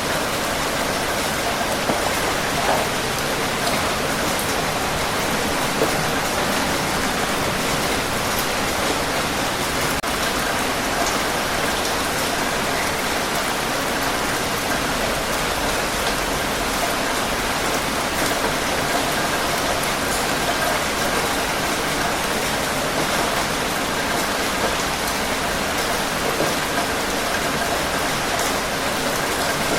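Steady heavy rainfall, an even hiss with scattered drops pattering on surfaces.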